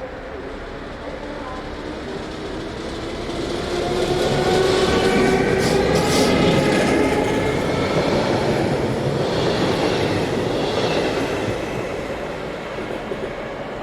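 Train running past on the rails, getting louder to a peak about a third of the way in and then fading, with whining tones that shift in pitch.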